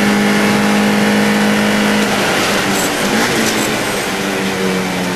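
Mini Challenge Cooper race car's 1.6-litre four-cylinder engine running at steady high revs, with road and wind noise. The note eases slightly about two seconds in, then holds.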